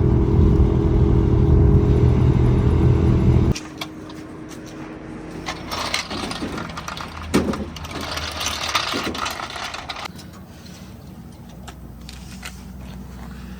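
Dump truck's diesel engine running loudly, cut off abruptly about three and a half seconds in; after it, scattered clicks and scraping over a quieter low hum.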